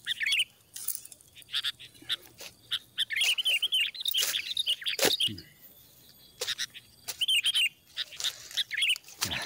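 Songbirds chirping in quick repeated phrases, with a few sharp snaps and rustles of footsteps on dry bamboo and leaves; the loudest snap comes about five seconds in.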